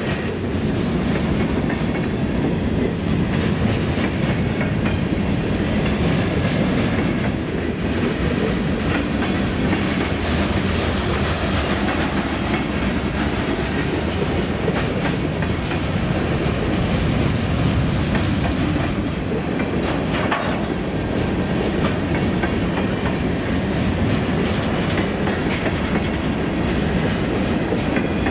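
CSX freight train rolling past: steady wheel-on-rail noise with the clickety-clack of railroad cars' wheels over the rail joints.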